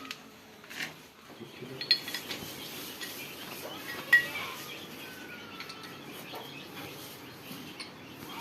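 A few sharp metallic clinks of tools and parts being handled at an open tractor gearbox, the loudest about two and four seconds in. Birds chirp faintly in the background.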